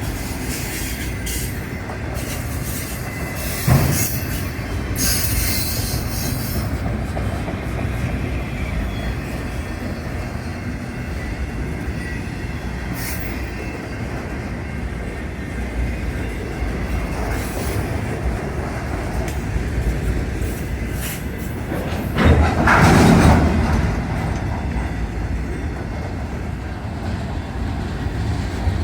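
A train rolling past on the track: a steady rumble of railcars on the rails with faint wheel squeal. There is a sharp clank about four seconds in and a louder surge of rumbling around twenty-two seconds.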